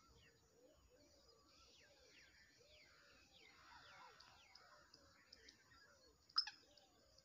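Faint chirping of birds, many short falling notes, with one sharp click about six seconds in.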